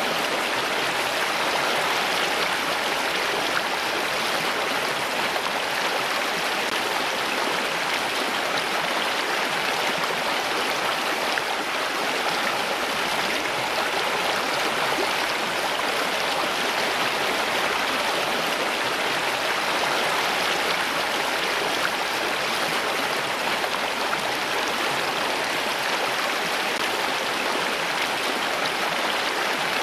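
Running water, a steady, even rushing with no breaks or separate drops standing out.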